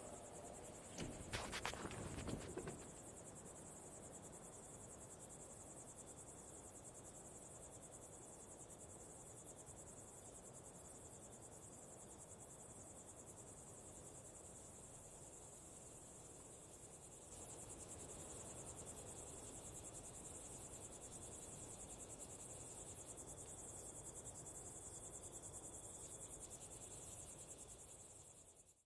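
Crickets chirping, a faint steady high-pitched trill of rapid ticks that gets a little louder about seventeen seconds in. A brief louder noise comes in the first two seconds.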